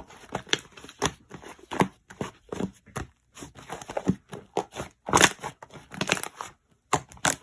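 Slime being squished and stretched by hand, giving irregular sticky pops and crackles, a few each second, with a louder run of squelches about five seconds in.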